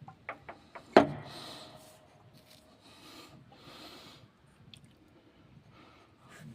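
Handling of hand tools and parts: a few light clicks, then a sharp knock about a second in that rings briefly, followed by soft rubbing and scraping sounds.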